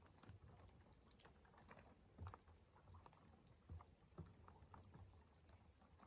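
Near silence, broken by a few faint, scattered soft knocks and clicks.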